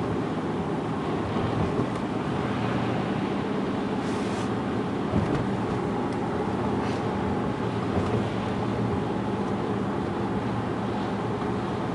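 Steady road and engine noise inside a moving car, a low even rumble with a brief bump about five seconds in.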